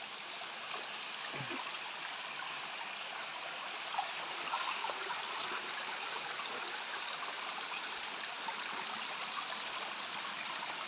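Stream water flowing steadily, an even rush with a few faint ticks about four seconds in.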